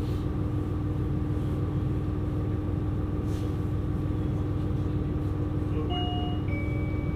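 KiHa 127 series diesel railcar heard from inside while under way: a steady low rumble of engine and running gear with a constant hum. About six seconds in, two short tones sound one after the other, the second lower.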